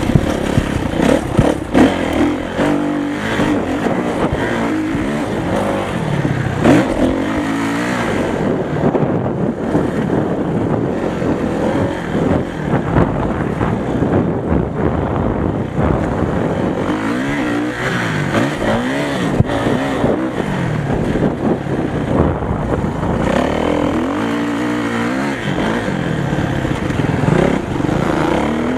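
Motocross motorcycle engines revving up and falling back repeatedly as the bikes ride the track, the pitch climbing and dropping every few seconds.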